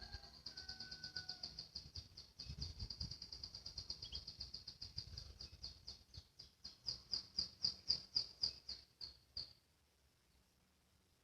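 Canary singing a rapid "ngriwik" trill: a long run of quick, high chirps repeated evenly. Near the end it slows to about four louder chirps a second, then stops suddenly.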